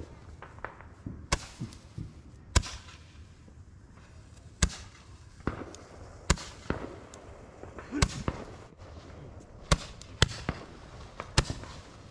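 Consumer fireworks going off: about eight sharp bangs at uneven intervals, a few seconds apart at first and closer together near the end.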